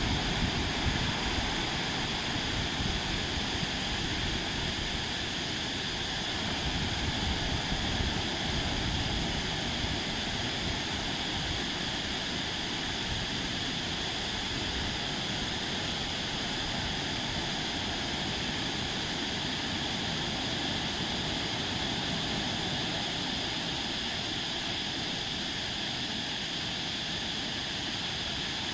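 Sea surf washing onto a beach, a steady rushing noise with a rumbling low end.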